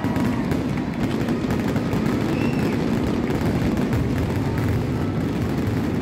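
Fireworks finale: a dense, continuous barrage of bursts blending into a steady rumble, with crackling throughout and a short whistle about two and a half seconds in.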